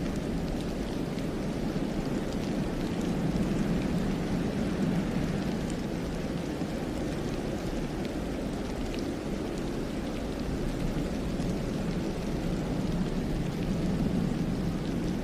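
Wind in a snowstorm rushing steadily through a pine forest, with a deep rumble that swells and eases a couple of times, and faint scattered ticks over it.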